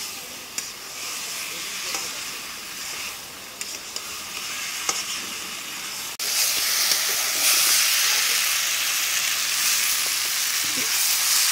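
Peas, paneer and tomato masala sizzling as they fry in a kadhai over a wood fire, stirred with a metal spatula that clicks and scrapes against the pan now and then. The sizzle gets suddenly louder about six seconds in.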